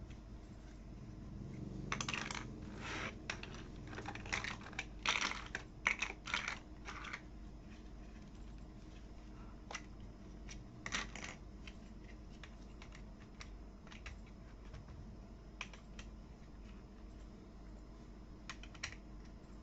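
Small plastic toy building pieces clicking and rattling as they are handled: a busy run of clicks over several seconds, then scattered single clicks.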